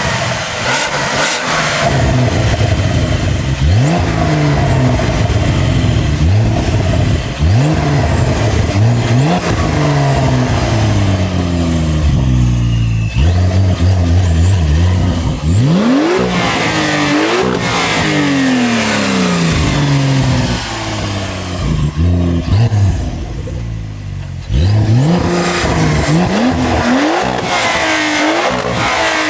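Porsche 992 Carrera T's twin-turbo 3.0-litre flat-six through a titanium valved exhaust with stock downpipes, accelerating hard several times: the pitch climbs through each gear and drops at each shift.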